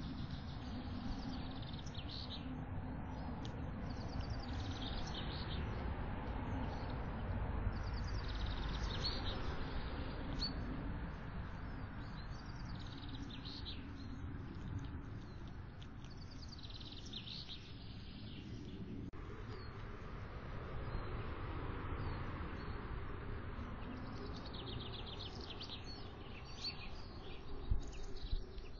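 Small birds chirping and singing in repeated short phrases, over a steady low rumbling background noise.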